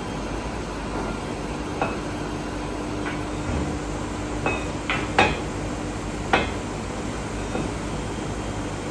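Steady hum of workshop machinery with several sharp, slightly ringing metal clanks of steel being struck or handled, the loudest a little past five seconds and at about six and a half seconds.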